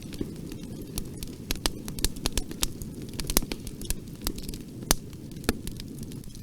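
Bonfire burning: a steady low rumble of flames with frequent sharp, irregular crackles and pops of burning wood.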